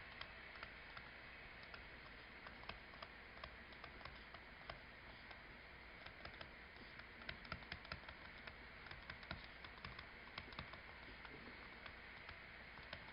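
Near silence with faint, irregular small clicks and taps, a few more of them in the second half.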